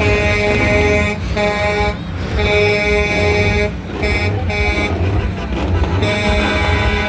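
Heavy truck engine rumbling, with a run of held, pitched horn-like notes over it, each about a second long with short breaks between them.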